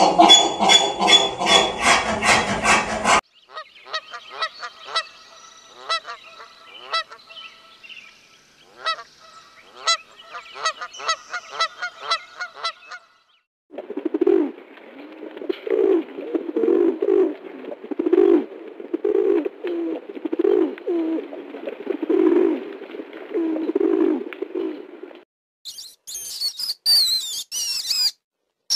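A run of animal sounds. First a mule brays in loud pulses for about three seconds. Then another animal gives repeated, clicky calls for about ten seconds, a pigeon coos low and rhythmically for about eleven seconds, and a rat squeaks in high, short notes near the end.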